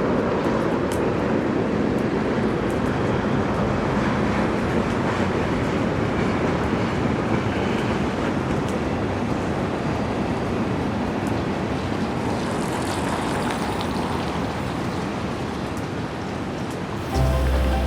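Steady rumbling vehicle noise with scattered faint clicks. Music cuts in near the end.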